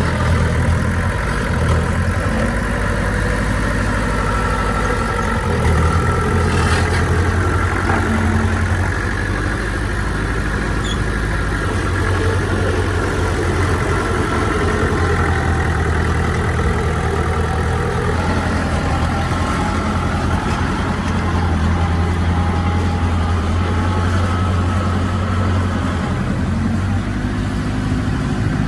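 Heavy diesel earthmoving engine running steadily at a low, even pitch, with its load and tone shifting slowly.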